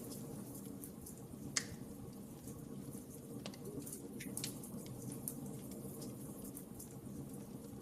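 Wood fire crackling, with scattered sharp pops (the loudest about a second and a half in) over a low steady rush.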